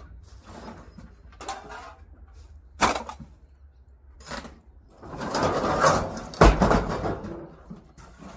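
Scrap items being handled, with scraping and rattling and a few sharp knocks; the heaviest knock comes a little past six seconds.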